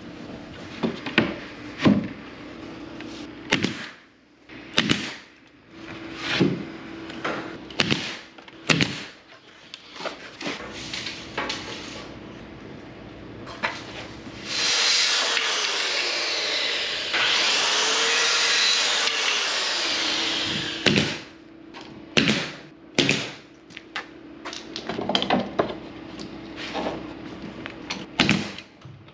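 Woodworking on a camper build: a string of sharp knocks and taps on wood, broken in the middle by a power tool running for about six seconds, its pitch dipping and rising as it cuts.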